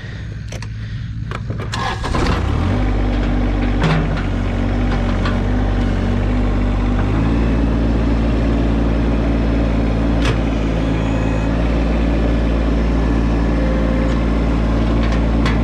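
Tractor diesel engine working under load. It runs at a low speed at first, revs up about two seconds in, steps up again about seven seconds in, then holds steady at the higher speed while the tractor backs and pulls in soft mud. A few sharp clicks or knocks come in over the engine.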